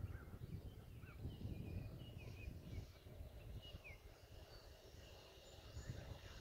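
Faint songbirds chirping and twittering in short repeated calls, over a low uneven rumble of wind on the microphone.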